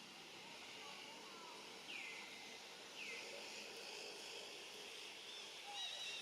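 Faint outdoor ambience: a steady high hiss like insects, with two short falling chirps about a second apart and faint twittering near the end.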